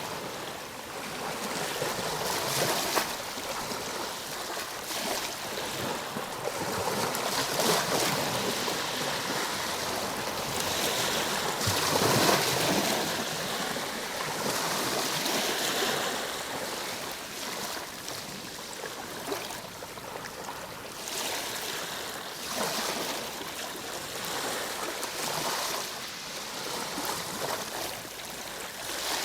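Ocean waves breaking and washing on a shore, the surf swelling and easing every few seconds, with the strongest wave about twelve seconds in.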